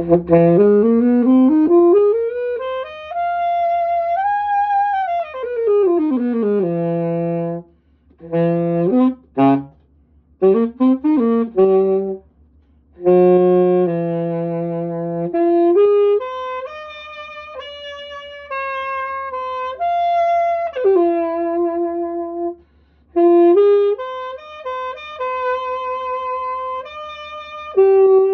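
Conn 6M alto saxophone played solo: a run swept up from the low notes and back down, short quick runs, low held notes, then slower phrases of longer held notes, with short pauses between phrases.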